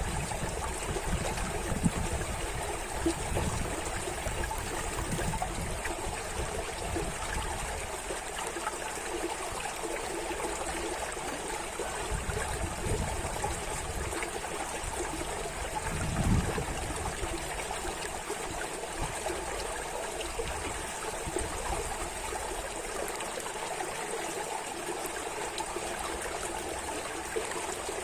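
Continuous running water of a stream trickling and burbling, with a brief low bump about halfway through.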